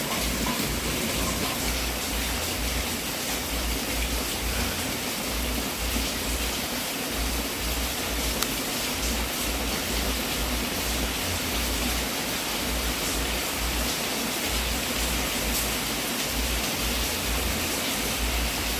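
Wood fire burning in a fireplace: a steady hiss of flames with a few faint crackles.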